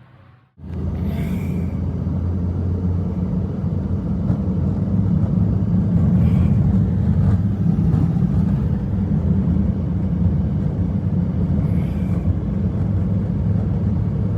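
Strong blizzard wind: a loud, steady low rumble that starts suddenly about half a second in, with a few brief hissing gusts.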